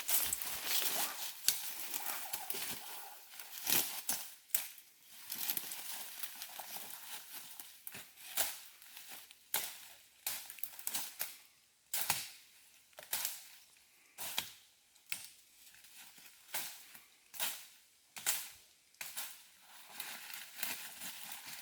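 Footsteps crunching through dry leaf litter and twigs in forest undergrowth, in sharp, uneven crackles about once a second.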